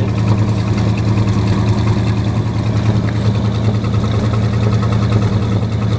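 1974 Dodge engine idling steadily while still cold, running a little rough.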